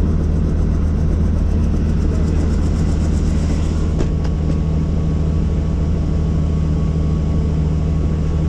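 Helicopter running: a loud, steady low drone of engine and rotor. A fast, even chopping in the higher sounds fades out about four seconds in, and a single click is heard near the same point.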